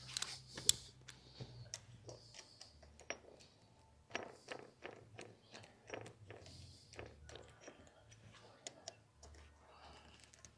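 Faint, scattered metal clicks and taps of hand work: Allen-head bolts and an Allen wrench being fitted into the rear crank seal housing of a 7.3 Power Stroke diesel, with a few sharper clicks in the first second.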